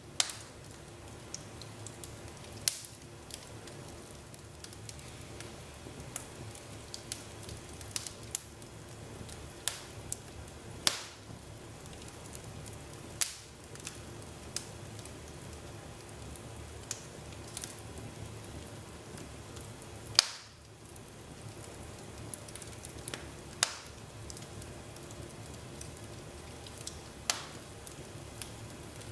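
Fireplace fire crackling steadily, with sharp pops every few seconds; the loudest pop comes about two-thirds of the way through.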